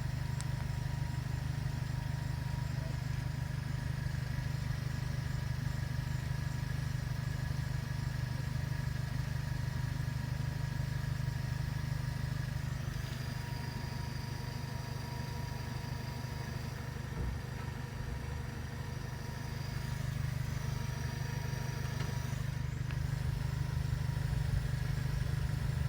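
Audi A4 B6 1.8T turbocharged four-cylinder engine running steadily at the exhaust, a low even drone near idle, slightly louder near the end.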